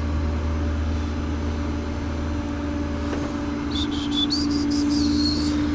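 Tow truck running on the road, heard from inside the cab: a steady engine drone and hum. About four seconds in, a high squeal rises in steps and lasts over a second. A sharp click comes at the very end.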